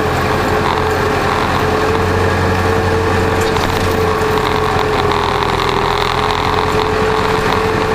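Massey Ferguson 3075 tractor's diesel engine running steadily, with a steady whine over it.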